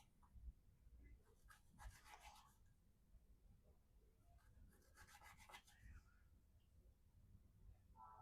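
Faint rasping strokes of a mirror-polished VG-10 knife edge slicing through rope, in two short bursts about two and five seconds in, with another starting near the end, over a low hum.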